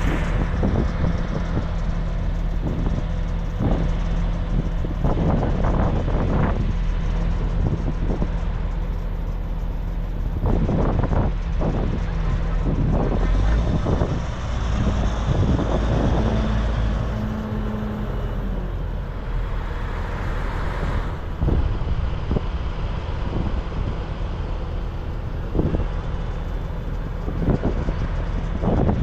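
Tractor engines running as a line of tractors drives past: a steady low engine drone with passing swells in loudness.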